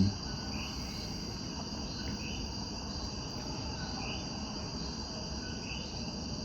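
Steady chorus of crickets and other insects, with a short rising chirp from another animal repeating about every one and a half to two seconds.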